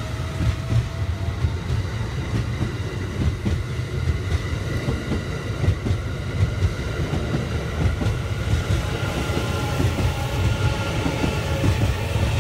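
JR East E001 series 'Train Suite Shiki-shima' train pulling out of a station past close by, gathering speed, with a steady low rumble from its wheels and a whine that rises slowly in pitch. Faint clacks come from the wheels on the rails.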